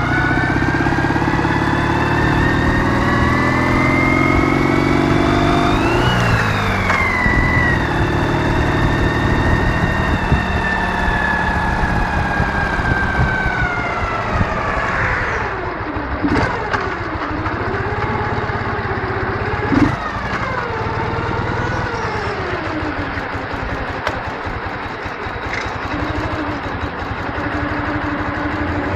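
Ural motorcycle's 650 cc flat-twin engine under way: revs climb for about six seconds, drop with a gear change, then fall away as the bike slows. It runs at low, rising and falling revs for the rest of the time.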